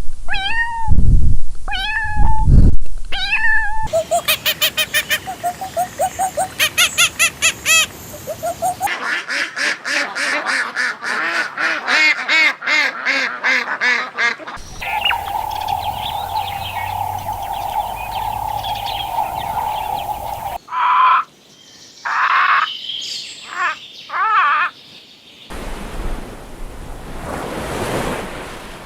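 A run of different animal calls that changes abruptly every few seconds: pitched calls repeated in quick series, then a rapid chatter, then a steady call, then separate louder cries.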